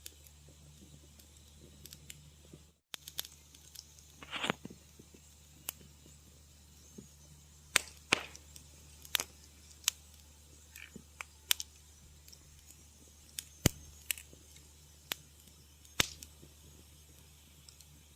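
Wood fire crackling: irregular sharp pops and snaps over a low steady background, with a few loud snaps and a short hissing burst about four seconds in. The sound cuts out completely for a split second just before three seconds in.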